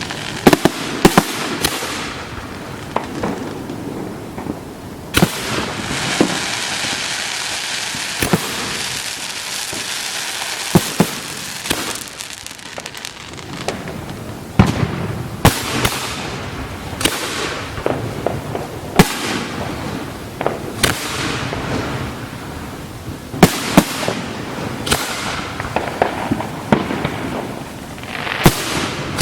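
Aerial fireworks show: a steady run of sharp shell bursts and launch thumps, several clusters of bangs, with hissing and crackling from burning effects between them.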